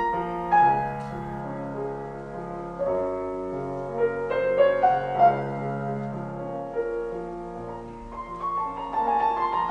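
Slow piano music, sustained notes and chords changing every second or so.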